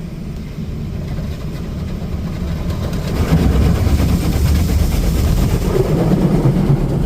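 High-pressure rinse jets of a Petit Accutrac360 touchless car wash hitting the car's body, heard from inside the cabin as a dense low rumble that gets louder about three seconds in.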